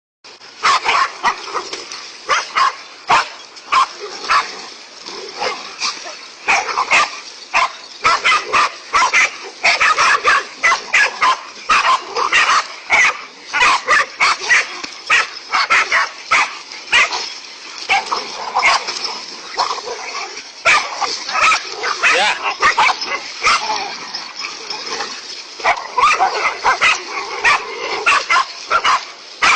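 Several dogs barking rapidly and without pause, their barks overlapping, as the pack confronts a large snake.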